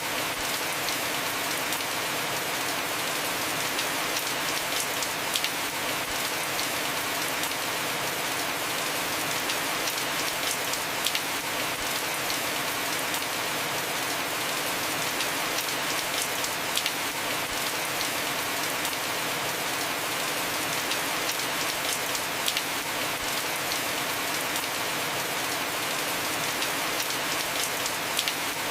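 Heavy rain falling steadily on a roof: a dense, even hiss with individual drops ticking through it.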